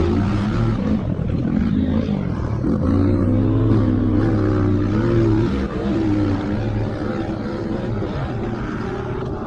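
Motocross motorcycle engines running hard, their pitch rising and falling as the bikes rev and shift.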